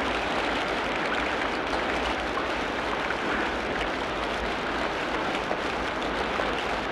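Steady rain falling in a tropical rainforest, an even patter with no break.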